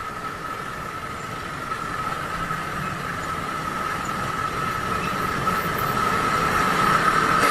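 Vehicle noise: a low rumble with a steady high-pitched whine, growing steadily louder.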